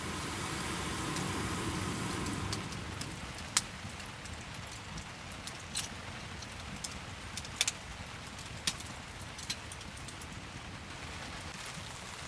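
Steady rain falling, with a few sharp, irregular drop taps standing out, a little louder in the first two seconds.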